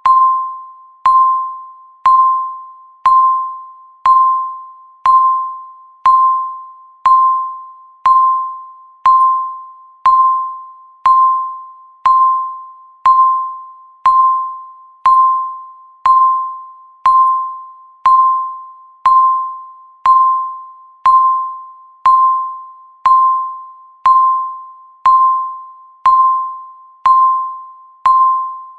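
Countdown timer beep: a short electronic tone at about 1 kHz, struck once every second and fading quickly after each strike, marking each passing second.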